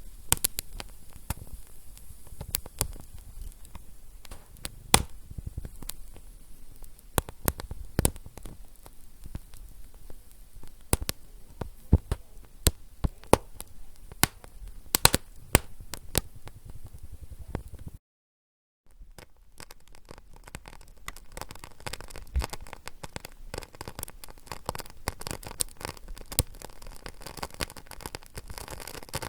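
Wood fire crackling: sharp, irregular pops and snaps over a low rumble and hiss. The sound cuts out completely for under a second about two-thirds of the way through, then comes back with denser, hissier crackling.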